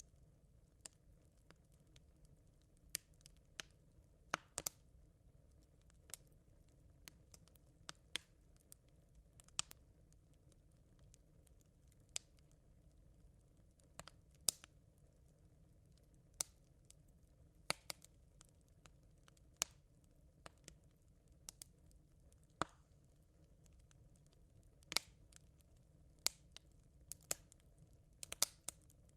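Smouldering campfire embers crackling: sharp, irregular pops about once a second, some in quick little clusters, over a faint low background.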